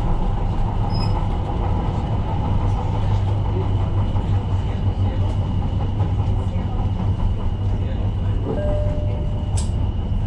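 Tyne & Wear Metro train running along the track, heard from on board: a steady low rumble of motors and wheels with a thin, steady high whine. A brief click sounds near the end.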